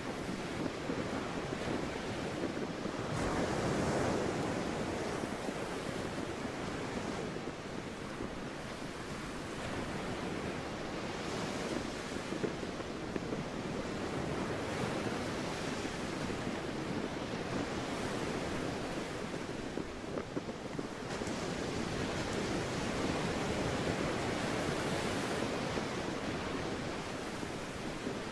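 Sea waves washing in, the noise swelling and easing every few seconds, with wind gusting on the microphone.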